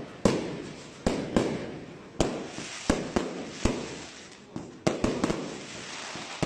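Professional aerial fireworks bursting: a quick, uneven string of loud bangs, roughly two a second, each trailing off in a fading rumble.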